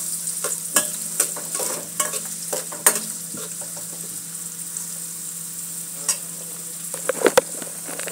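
Chopped onion and garlic sizzling in oil in an aluminium wok, sautéing toward light brown. A stirring utensil scrapes and taps against the pan now and then, with fewer strokes in the middle and a quick run of taps near the end.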